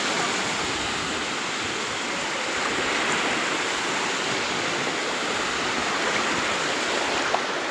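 Sea waves washing on a beach, a steady rushing hiss that swells slightly partway through.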